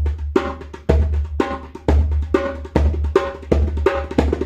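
Djembe played by hand: a short rhythm repeated in cycles at a fast pace, mixing deep bass strokes in the centre of the drumhead with sharper, higher strokes near the rim.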